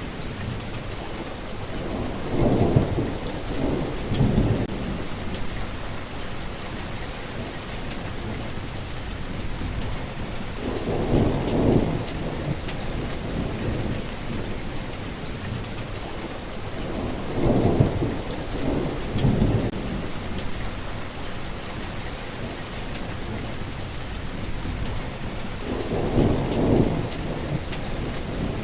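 Steady rain falling, with thunder rumbling low four times, each roll swelling and fading over a second or two.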